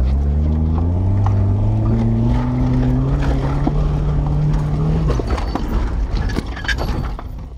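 Ford Probe engine running under load, its pitch rising steadily, with scattered sharp knocks. About five seconds in the note breaks off and the engine runs down and stops: it is seizing, which the driver takes for a failed bearing shell after its oil was emulsified by wood preservative.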